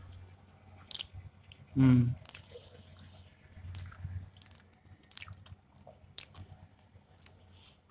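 A person chewing a mouthful of soft paneer bhurji, with small wet mouth clicks and smacks scattered through. A short closed-mouth hum comes about two seconds in.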